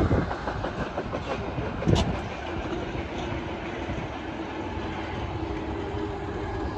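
Tank cars at the rear of a Canadian National freight train rolling away, their wheels clacking over the rail joints. There is a sharp knock about two seconds in. A steady hum comes in around the middle.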